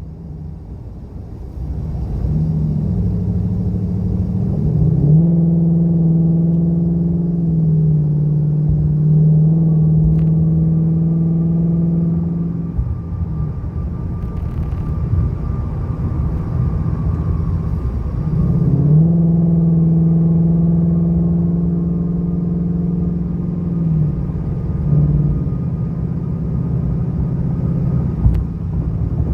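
2019 Mustang GT's 5.0 V8 with a Pypes H-pipe exhaust and the active exhaust in track mode, heard from inside the cabin, pulling away and up through the gears. The drone climbs and drops in pitch at several shifts, then holds steady at cruising speed.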